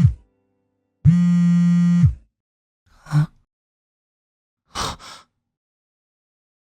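Mobile phone vibrating: a flat, steady buzz lasting about a second, twice, with a second's pause between. A short, softer sound follows about three seconds in, and a brief double rustle near five seconds.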